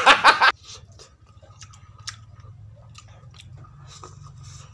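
Close-up chewing of fried rabbitfish and rice, with soft wet smacks and clicks of the mouth. A brief loud vocal sound comes right at the start, and a steady low hum runs underneath.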